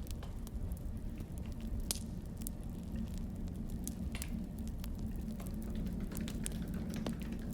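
Crackling wood fire: irregular sharp pops and snaps over a steady low rumble.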